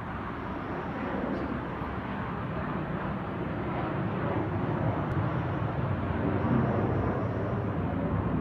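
Fighter jet engines at takeoff: a deep, noisy roar that grows steadily louder.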